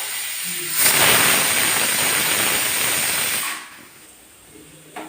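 Pressure cooker whistling: steam hisses out of the weight valve for about three seconds, then stops. This is the second whistle she was waiting for, the sign that the boiling pork is done and the gas is to be turned off.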